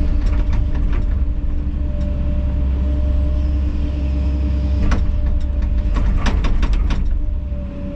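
Kobelco SK210 excavator's diesel engine running steadily. Short knocks and clicks come about five seconds in and again in a cluster between six and seven seconds.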